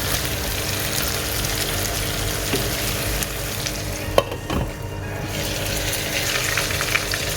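Marinated chicken pieces frying in oil in a pan, sizzling steadily as they crisp on their second side. About four seconds in there is a single sharp click, and the sizzle briefly thins for about a second.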